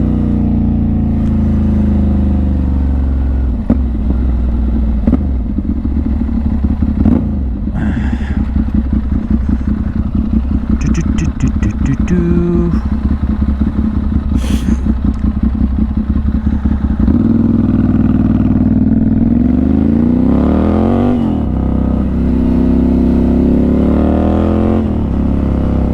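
Motorcycle engine heard from inside the rider's helmet: slowing at first, then turning over slowly with a rapid pulsing beat for several seconds, then revving up with a rising pitch about two-thirds of the way through, a gear change, and running steadily.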